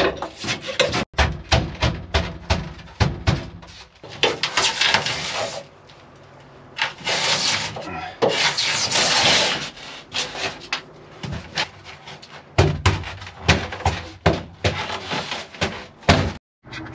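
Foil-faced foam insulation board being worked into a truck body's walls: a run of sharp knocks as it is pounded into place, with longer stretches of scraping and rubbing.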